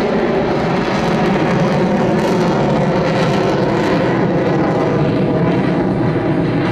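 Twin jet engines of an F/A-18 fighter, a loud, steady jet roar with a pitched whine running through it.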